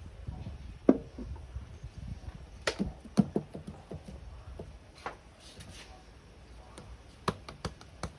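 Tools and engine parts being handled on a workbench: scattered sharp clicks and knocks, a few of them ringing briefly, at irregular intervals.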